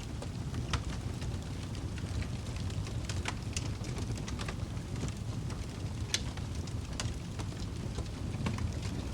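Wood fire in a fireplace crackling: scattered sharp pops and snaps, roughly one a second, over a steady low rumble.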